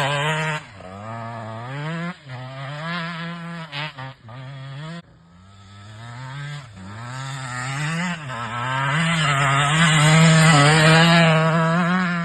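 KTM 125 two-stroke dirt bike engine revving under a rider, its pitch rising and falling with the throttle. It drops off briefly about five seconds in, then climbs to its loudest near the end.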